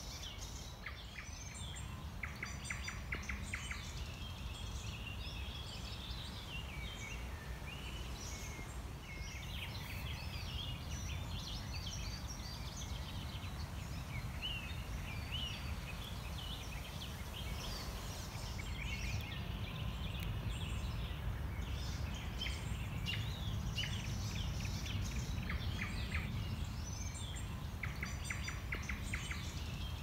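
Several songbirds singing and calling throughout, with rapid trills repeated now and then, over a steady low rumble.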